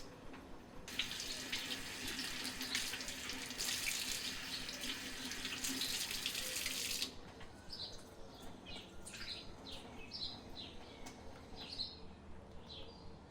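Water running hard from a tap for about six seconds, starting a second in and shutting off suddenly. Afterwards, small birds chirp in quick short calls.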